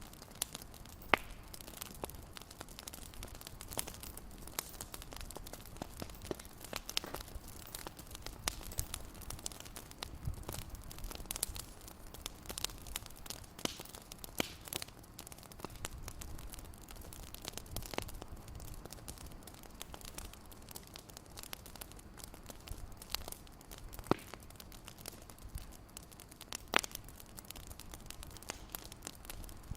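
Fireplace crackling: irregular small pops and snaps over a low rumble, with a few sharper pops, one about a second in and two near the end.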